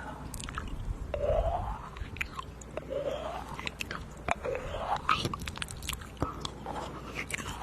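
ASMR mouth sounds close to the microphone: a run of wet mouth clicks and smacks mixed with short rising sounds, like pretend eating.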